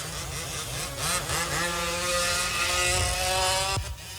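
Small two-stroke petrol engines of 1/5-scale RC off-road race trucks running on track, one revving up with a slowly rising pitch from about a second and a half in. The sound cuts off sharply near the end.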